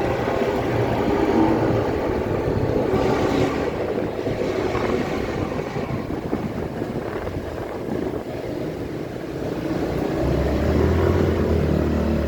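KTM RC16 MotoGP motorcycle's V4 engine and paddock vehicle noise; a steady low idling note with overtones comes in about ten seconds in.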